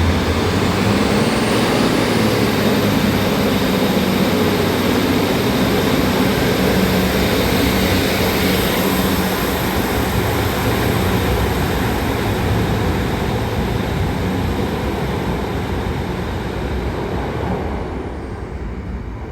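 Northern Class 156 diesel multiple unit pulling out under power, its diesel engines running with a thin high whine that rises in pitch over the first couple of seconds and then holds. The sound slowly fades near the end as the train draws away.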